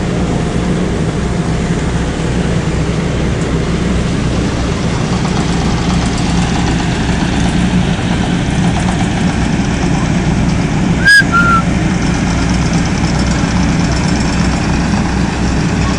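Heavy road-repair machinery engines running steadily, a continuous low drone. About eleven seconds in there is a sharp click and two brief high chirps.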